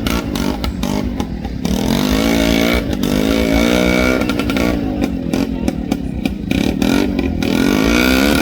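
Tractor engine revving, its pitch rising and falling several times.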